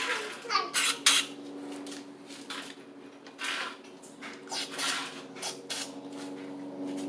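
Aerosol carburetor cleaner sprayed in a series of short hissing bursts into a Honda Trail 70 carburetor's jets and passages.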